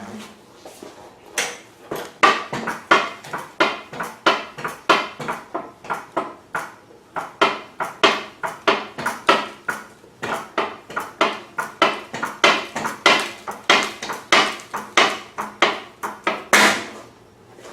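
Metal hand tool clicking in a steady rhythm, about two strokes a second, while a fitting is worked; the strokes stop shortly before the end.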